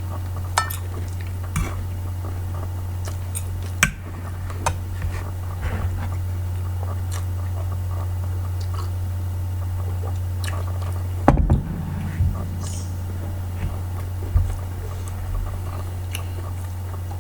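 A person chewing food, with scattered light clicks of cutlery and dishes and a louder knock about eleven seconds in, over a steady low hum.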